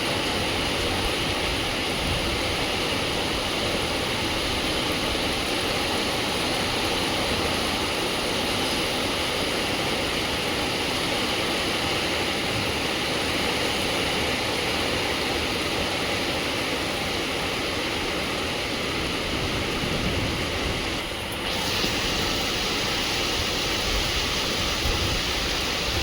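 Heavy downpour of rain falling in a steady, dense hiss, with a brief dip in level about three-quarters of the way through.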